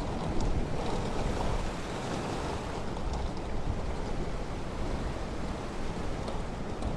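Ocean surf washing onto a beach: a steady rush with a slight swell in the first second. Wind buffets the microphone, adding a low rumble.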